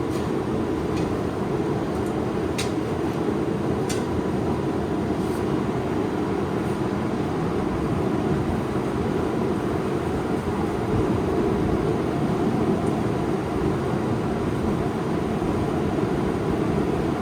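Steady roar of a forge burner running, with a few light metallic taps in the first seven seconds.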